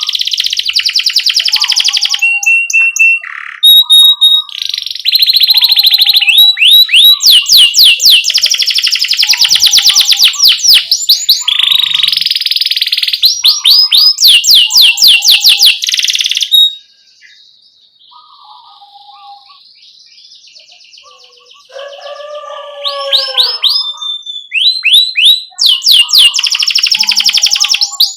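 Domestic canary singing: loud fast rolling trills and runs of repeated chirped 'cuit cuit' notes, with a quieter pause about two-thirds of the way through before the song picks up again.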